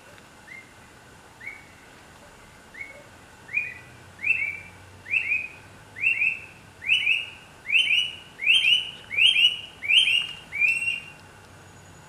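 Bright-rumped attila singing: a series of about a dozen whistled notes, each a quick upslurred whistle, starting faint and spaced about a second apart, then growing louder, a little faster and slightly higher, ending abruptly near the end.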